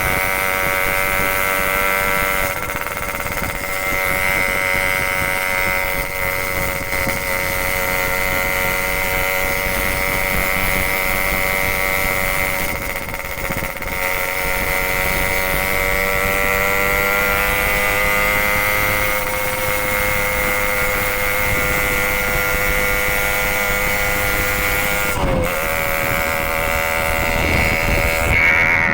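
Motorcycle engine running at a steady speed through an aftermarket 'packing power' PK2 exhaust. The pitch creeps up slightly midway and dips briefly near the end.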